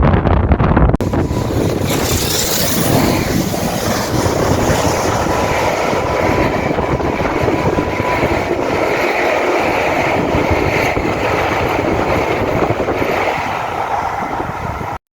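Train running past on the rails, a steady rolling rumble with a faint whine, cutting off abruptly near the end.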